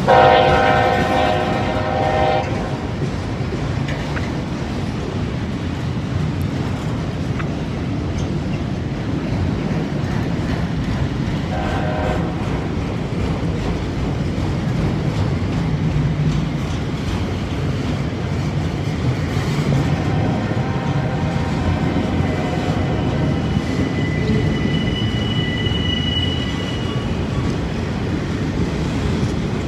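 Freight train rolling past with a steady rumble of wheels on the rails. The locomotive horn sounds a loud blast at the start, a short toot about twelve seconds in, and another, weaker blast around twenty seconds in.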